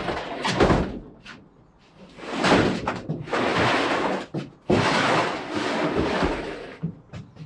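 Knocks and thumps, then two long scraping noises of a few seconds each, as an IBC tank with its steel cage is shifted into place.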